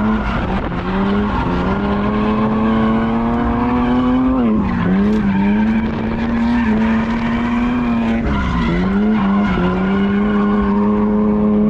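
Drift car's engine held at high revs through a slide, with tires skidding; the revs briefly drop and climb back three times.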